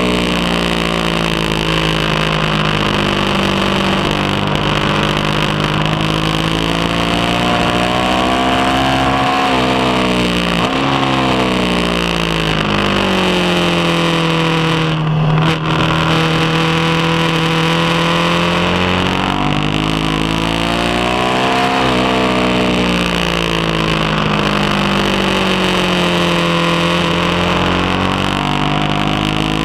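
BMW HP2 Sport's 1170 cc boxer twin at full throttle on track, the engine note climbing through the revs and dropping back several times as the rider accelerates, shifts and brakes for corners, with a steady rush of wind noise over it.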